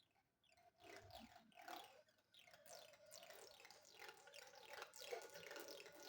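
Rapid run of short squeaky chirps, each falling in pitch, as adhesive tape is worked off a TV panel's glass: the stick-slip squeak of sticky tape being removed.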